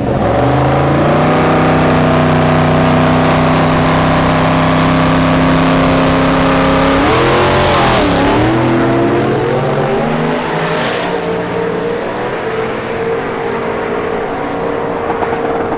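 Twin-turbo Hemi V8 of a Plymouth 'Cuda drag car revving up and held at steady high revs for several seconds. About eight seconds in the pitch dips and climbs back, then the engine settles lower and quieter.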